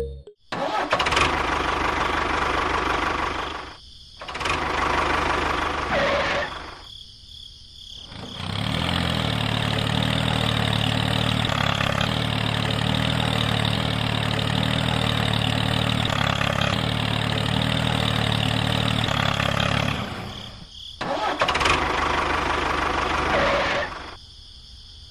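Engine sound running in four stretches that start and stop abruptly. The longest, from about eight seconds to twenty, has a steady low hum under it.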